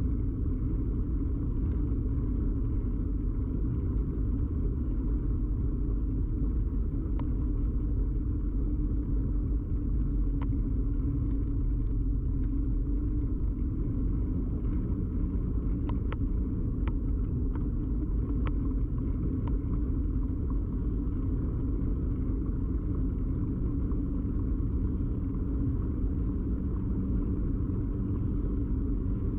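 Steady rumble of a bicycle ride picked up through a camera fixed to the bike: tyre and frame vibration carried through the mount, with a scatter of light ticks and rattles around the middle.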